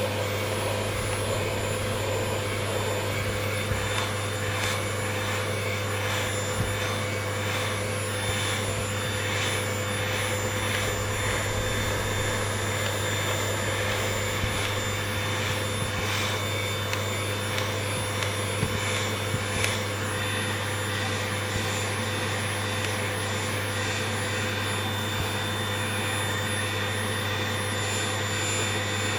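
Vacuum cleaner running steadily while being used to groom a pet rabbit's fur.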